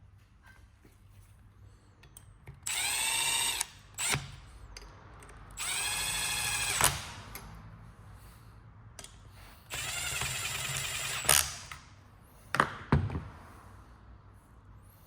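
Electric drill run in three short bursts of about a second and a half each, its motor whine rising as it spins up each time, with sharp clicks after each run.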